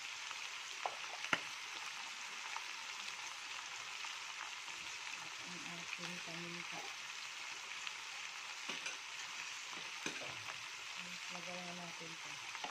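Chicken pieces coated in curry powder sizzling steadily as they fry in a nonstick wok, with a couple of sharp clicks about a second in.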